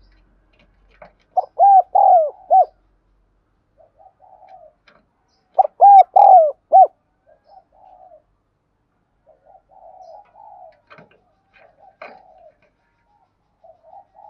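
Spotted dove cooing: two loud phrases of four or five notes each, about four seconds apart, with fainter calls in between and after.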